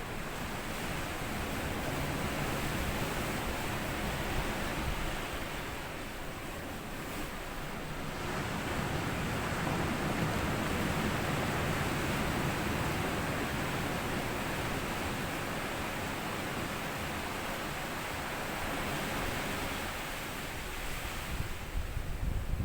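Small sea waves washing up on a sand beach, the surf hiss swelling and easing twice, the second swell longer. There is a low rumble near the end.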